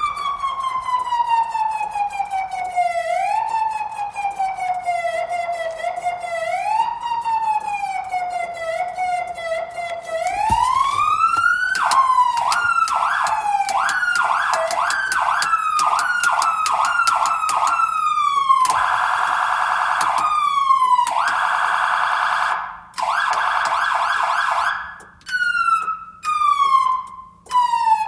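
Fire engine siren cycling through its tones. A slow wail rises and falls for about ten seconds, then sweeps up into a fast yelp. After that come a few short stretches of very rapid warbling, and it ends with short falling blips.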